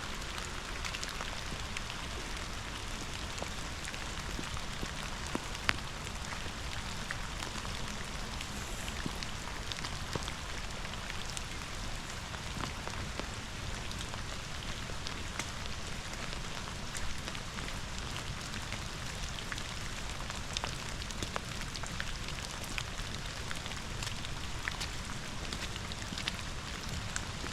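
Steady rain falling, with many scattered drops tapping close by over an even rushing hiss.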